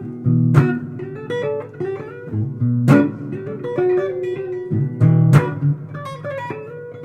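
Solo guitar improvising a blues line: picked single notes over low bass notes, with a sharp struck accent about every two and a half seconds.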